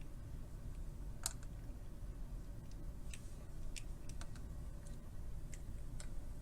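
Scattered light clicks and taps of small objects being handled, the sharpest about a second in and a run of lighter ticks later, over a low steady hum.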